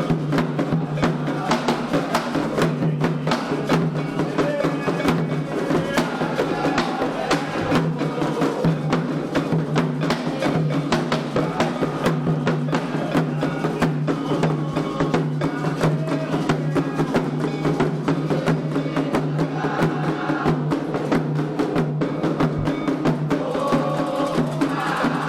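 Candomblé ceremonial music: hand drums played in a fast, steady rhythm, with a high, clicking struck beat running through it.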